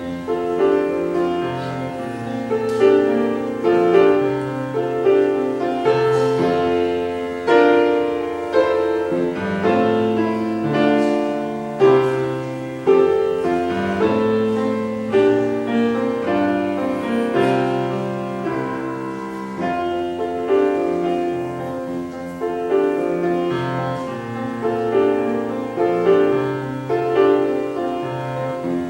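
Piano playing a slow, chordal piece, notes struck every second or so and left to ring and fade.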